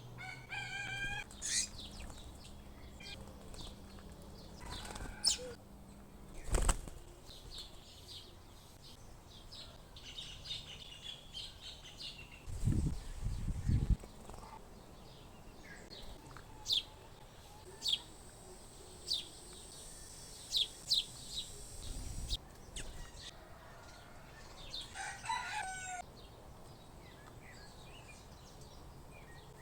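Small wild birds at a feeding box: wings flutter as they land and take off, with short sharp chirps and calls throughout. There are a few low thumps, with a cluster of them about halfway through.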